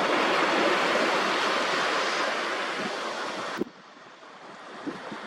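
Sea surf washing in at the shoreline: a loud rush of water that drops away suddenly about three and a half seconds in, leaving quieter lapping with a few small clicks.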